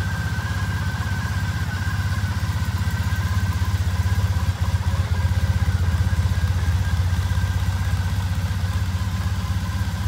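2014 Triumph Bonneville T100's air-cooled 865 cc parallel-twin engine idling steadily in neutral at about 1,000 rpm.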